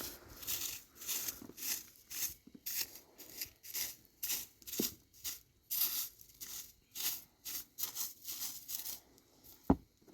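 Quick crunching steps in snow, about two to three a second, with a single sharp knock near the end.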